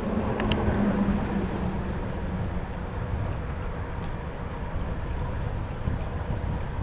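Wind rushing over the microphone and low rumble while riding a bicycle, with a couple of sharp clicks about half a second in.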